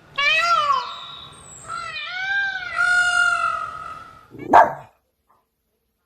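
An animal calling: a run of high, rising-and-falling whining calls, then one short, sharp call about four and a half seconds in.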